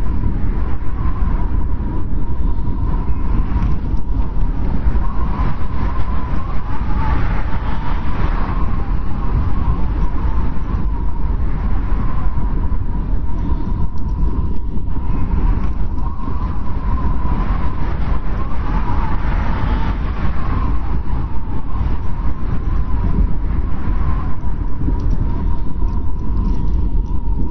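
Wind blowing in a snowstorm: a steady low rush with a thin, wavering whistle that swells a couple of times.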